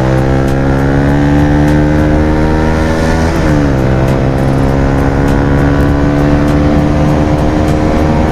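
Bajaj Pulsar 220F single-cylinder engine through an aftermarket Akrapovic exhaust, accelerating with its pitch climbing steadily. About three seconds in the pitch drops sharply as the rider shifts up a gear, then it climbs again under acceleration.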